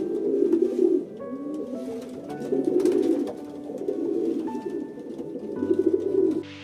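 Pigeon cooing in about four low, throaty phrases, over steady background music.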